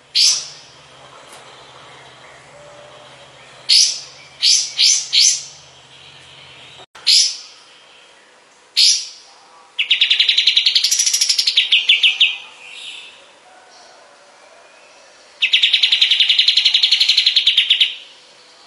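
Kapas tembak bird singing: sharp, clear single notes and a quick run of four, then two long rapid trills of about two and a half seconds each, one near the middle and one near the end.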